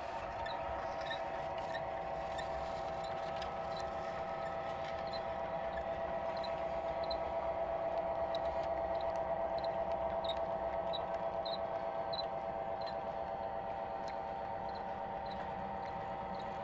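A 00 gauge model train running on the layout: a steady motor whine with a light click about every half second as wheels cross rail joints. It grows a little louder around the middle as the train passes closer.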